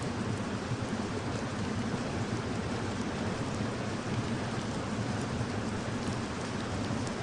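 Steady rain falling, an even hiss of drops with the most weight low down and faint drop ticks scattered through it.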